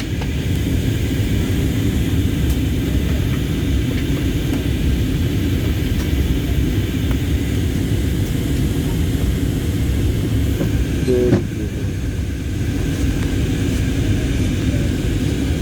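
Steady low roar of an airliner's engines and rushing air heard inside the passenger cabin in flight, with a brief higher sound about eleven seconds in.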